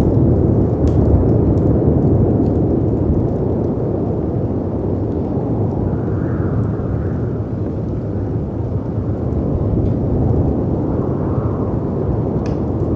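Layered storm ambience: a deep, steady rush of wind and sea waves breaking, swelling slightly around the middle and again near the end, with a few faint crackles from a fireplace.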